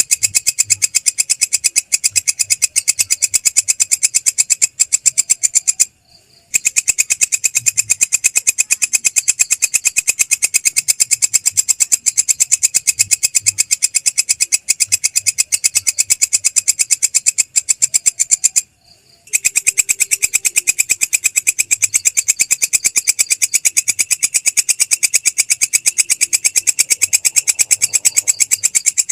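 Belalang krek grasshopper stridulating: a loud, continuous, rapid and even pulsed buzz, with two brief breaks of about half a second, about six seconds in and again near nineteen seconds.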